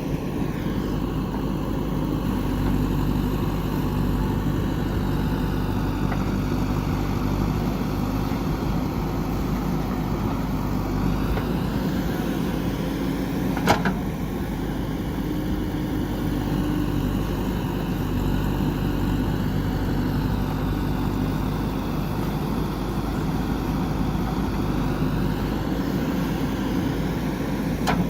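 JCB backhoe loader's diesel engine running steadily, with one sharp knock about halfway through.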